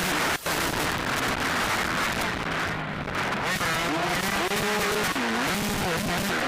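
Motocross bike engines revving, their pitch climbing and falling again and again over a heavy hiss of poor-quality recording.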